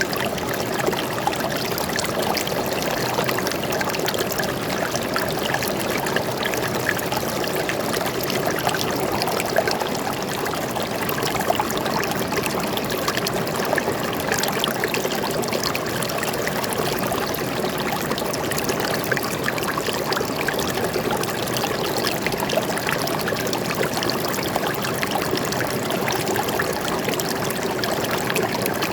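Stream water flowing and trickling steadily, with a dense, even babble of small splashes.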